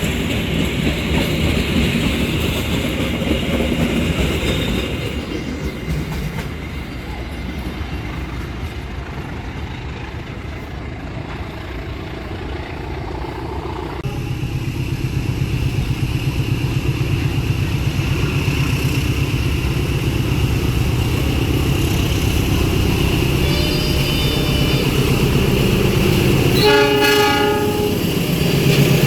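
A train rolling past with its wheels clacking over the rail joints. After a cut, a diesel-hauled freight train runs with a steady low rumble, and its horn sounds one short blast near the end.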